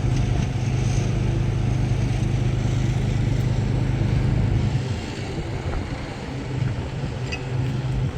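An engine running steadily with a low, even hum, a little quieter after about five seconds.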